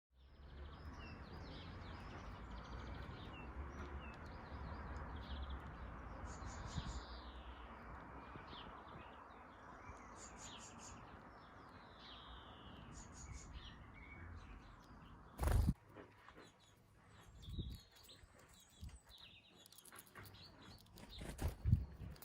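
Small garden birds chirping and calling in short, high notes over a steady background hiss and rumble. A loud thump comes about fifteen seconds in, and a couple more knocks come near the end.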